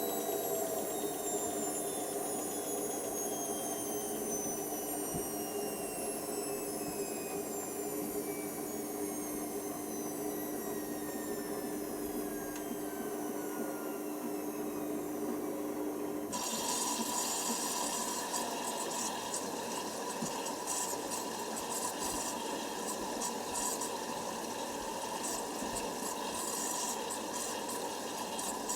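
Hoover Nextra HNWL7146 washer dryer: the drum motor whines down, several tones sinking slowly in pitch. About 16 seconds in, water suddenly starts rushing through the machine with a steady hiss.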